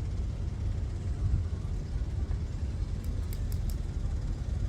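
Steady low rumble with no clear pitch, with a few faint high ticks about three seconds in.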